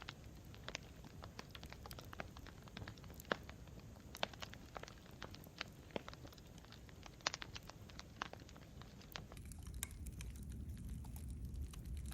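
Campfire crackling: irregular sharp pops and snaps of burning wood over a low, steady rumble of flame, the rumble growing louder near the end.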